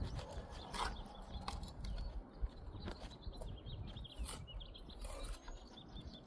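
Masonry work on brick and mortar: irregular scraping and tapping strokes, with small birds chirping faintly.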